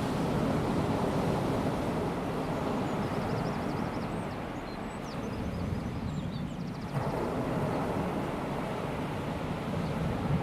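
Calm sea washing gently onto a sandy beach, a steady low wash that swells and eases, with faint bird chirps in the middle.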